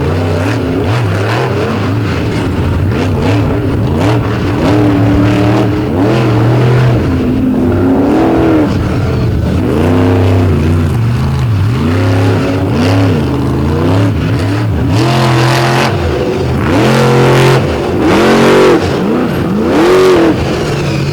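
Monster truck engine revving hard and falling back again and again, the throttle worked up and down over and over.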